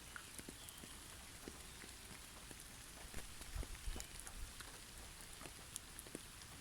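Steady soft hiss with scattered light drops and ticks pattering on snow-covered trees. A few louder soft thuds come about three to four seconds in.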